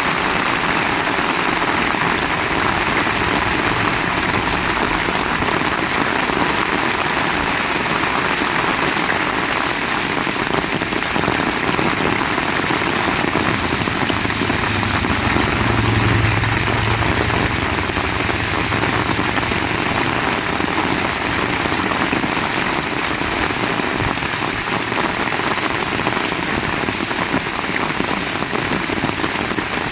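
Heavy rain falling steadily in a dense hiss. About halfway through, a low engine hum swells and fades over several seconds, like a vehicle passing.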